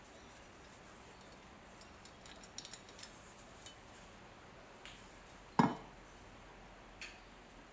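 Steel bayonet being handled: a run of small metallic clicks and clinks, then one louder knock a little past halfway as it is set down on a hard surface, and a last clink near the end.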